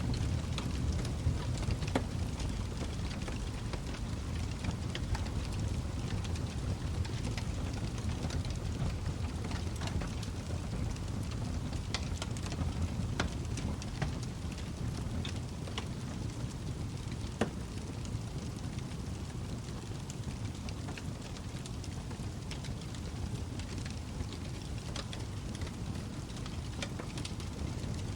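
Log fire burning in a fireplace: a steady low rush of flame with scattered sharp crackles and pops, a few louder snaps near the middle.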